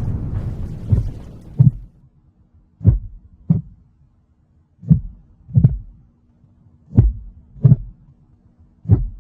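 Heartbeat sound effect: slow double thumps, lub-dub, about every two seconds, over a faint low hum. Before the beats start, a rumbling boom fades out over the first two seconds.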